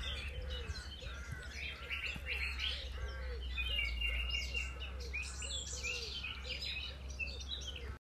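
Birdsong from several birds, with short arching calls repeated about twice a second and higher chirps mixed in, over a low steady hum.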